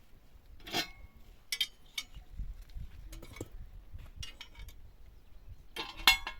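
A series of short, light clinks and knocks, some ringing briefly, irregularly spaced, the loudest near the end.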